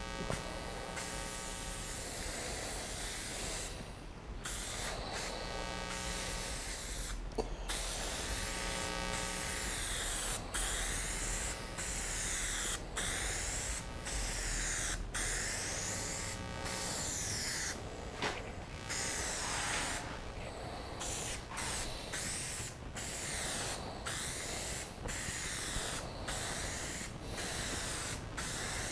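Aerosol spray paint can hissing in a series of passes, broken by many short pauses between strokes.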